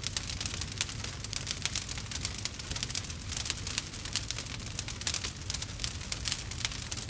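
Campfire crackling, with dense, irregular sharp snaps and pops over a low steady rumble.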